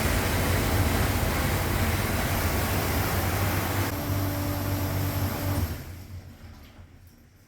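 Commercial lid-type dishwasher running its wash cycle: the wash pump hums steadily under the rush of spraying water, then the noise dies away about six seconds in.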